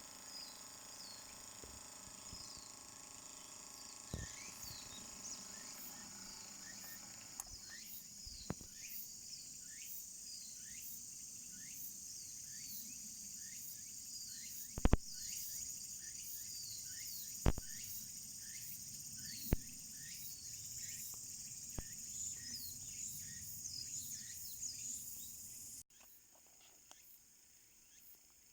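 Outdoor ambience of insects droning steadily, with a short falling chirp repeating over and over and a few sharp knocks, the loudest about halfway through. The sound cuts off abruptly near the end.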